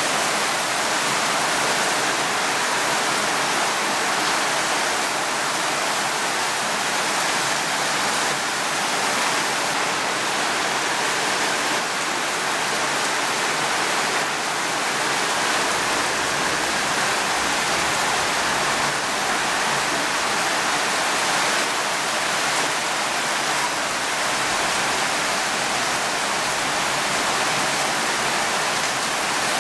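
Steady rainfall, a dense, even hiss without distinct drops or thunder claps.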